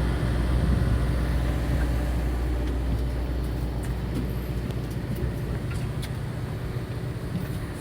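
A fishing boat's engine running steadily, a low hum whose deepest rumble eases a little after about five seconds.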